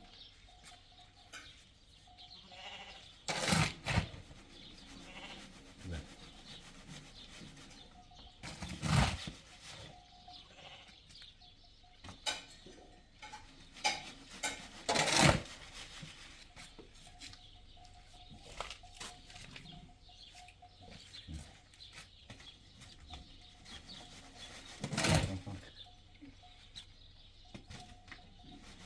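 Goats bleating now and then: four loud, harsh calls several seconds apart over quieter background sounds.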